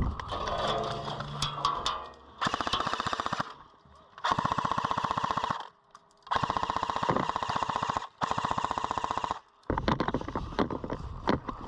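Airsoft light machine gun firing full-auto in four long bursts of rapid, even shots, each lasting a second or more, with short gaps between them. Scattered single pops are heard before and after the bursts.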